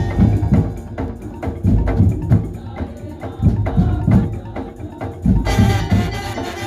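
Madurese tong-tong (ul daul) ensemble playing a percussion passage: wooden slit drums clacking over deep drum strokes in a driving rhythm. The fuller band, with its melodic instruments, comes back in about five and a half seconds in.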